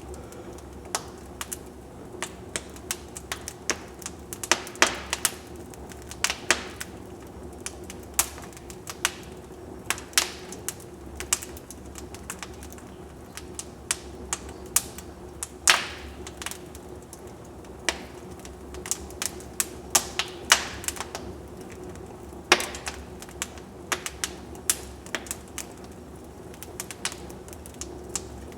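Wood fire burning in a fireplace, crackling and popping in sharp, irregular snaps over a steady low hiss of flame.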